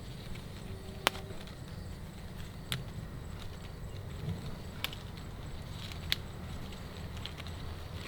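Four sharp, short knocks spaced irregularly a second or two apart, the first the loudest, over a low steady hum.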